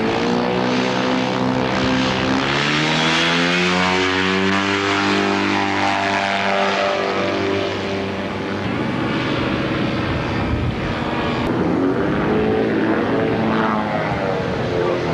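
Kolb ultralight aircraft's engine and propeller running. The pitch rises a couple of seconds in, sinks slowly over the next few seconds, and climbs again near the end.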